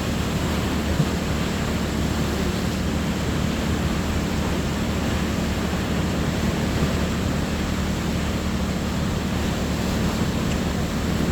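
Steady rush of sea surf, with a low steady hum underneath.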